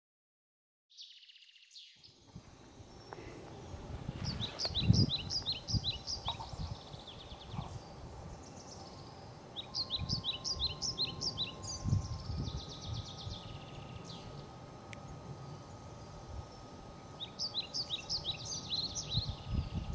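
A songbird singing the same quick phrase of rapid, high chirping notes three times, several seconds apart, over a low, gusty rumble.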